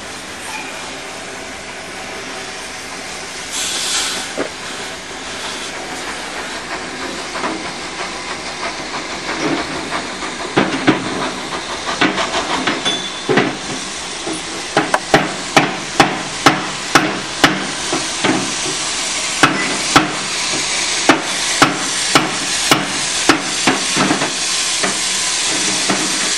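Steam train passing: a steady hiss of steam that grows louder. From about ten seconds in, a run of sharp metallic clicks comes roughly two a second, some in pairs: the wheels going over rail joints.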